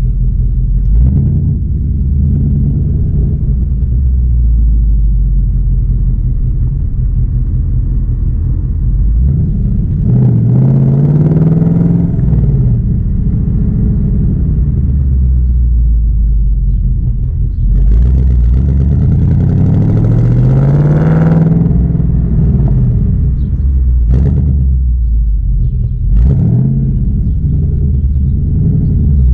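2019 Ford Mustang GT's 5.0-litre V8 running with a low rumble while driving. Its pitch climbs under acceleration twice, about ten seconds in and again near eighteen seconds, and falls back each time.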